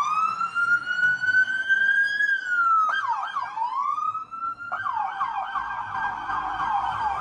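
Electronic police siren: a long wail that rises slowly and falls, then about three seconds in switches to a fast yelp, which quickens further near the end.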